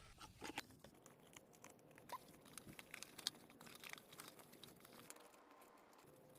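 Faint rustling and scattered light clicks and crackles of camping gear being handled and packed away.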